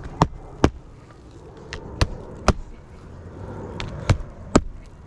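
Nails being driven into asphalt roof shingles: six sharp knocks in three pairs, each pair a blow and a quick second blow, the pairs about two seconds apart.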